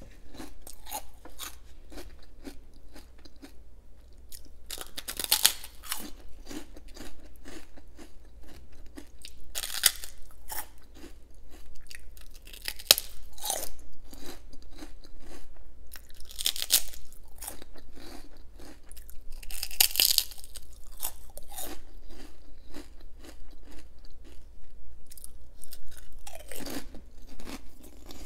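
Close-up chewing and crunching of crisp homemade prawn crackers, with louder, sharper bites several seconds apart among steady crackly chewing.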